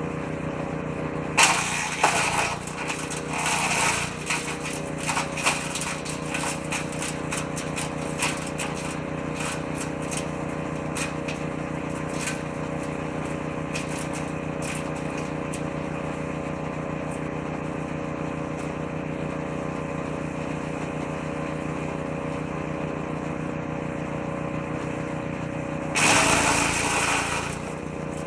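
Engine-driven woodchipper-shredder running steadily, with bursts of shredding as branches are fed into the drum: a few seconds of loud chipping about a second in, trailing into scattered crackles and clicks, then another loud burst near the end.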